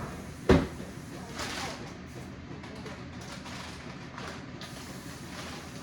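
Kitchen clatter while breakfast is being cooked: a single sharp knock about half a second in, then a few fainter clatters over a steady background hum.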